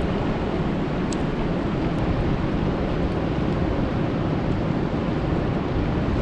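Steady rain falling on a lake: an even, deep rushing noise with a couple of faint drop ticks.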